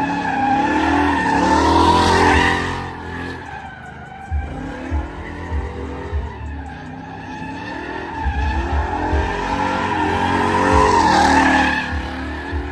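Pickup truck engine revving hard while its tires squeal and spin, in two long swells, about two seconds in and again near the end, with the engine easing off in between.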